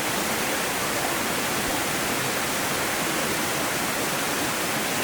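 Fast-flowing mountain stream rushing steadily, an even wash of water noise.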